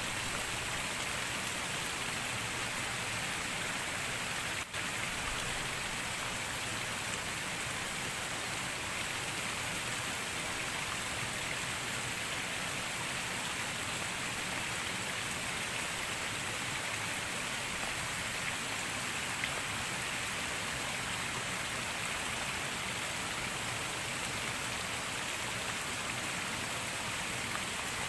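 Steady rain falling, an even hiss with no breaks except a very short dropout about five seconds in.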